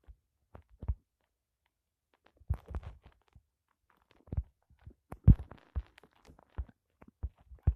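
A series of irregular knocks and thumps, the loudest about five seconds in.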